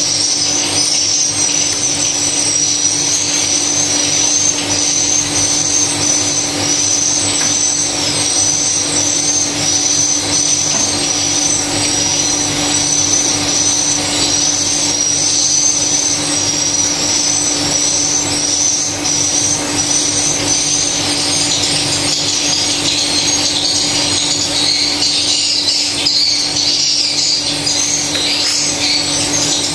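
Swiftlets chirping in a continuous, rhythmic high twittering, over a steady low hum.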